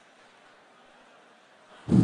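Quiet hall background, then near the end a short, loud vocal sound close to a PA microphone.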